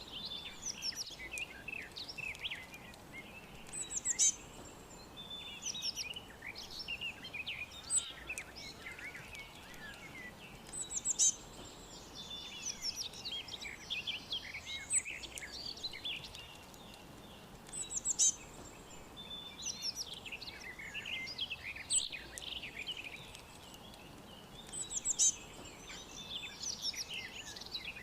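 Several songbirds chirping and singing together, with one loud, high song recurring about every seven seconds over a faint steady hiss.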